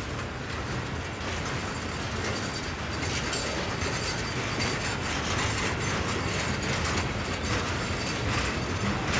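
A train rolling past, its steel wheels on the rails making a steady rumble with irregular clicks and clanks. It grows somewhat louder about three seconds in.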